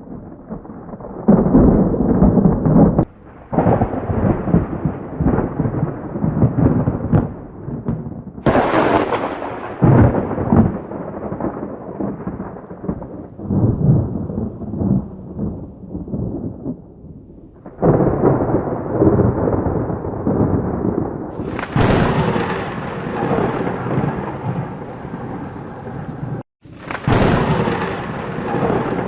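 Thunderstorm: rolling thunder rumbling again and again over steady rain, with sharp cracks of nearby thunder about eight seconds in, and twice more near the end. The sound cuts out abruptly a few times, as if pieced together.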